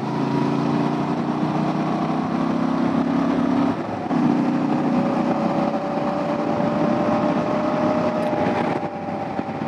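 Honda XL750 Transalp's parallel-twin engine pulling steadily as the bike accelerates to highway speed, heard from the rider's seat with wind rush on the microphone. The engine note dips briefly about four seconds in, then carries on rising gently.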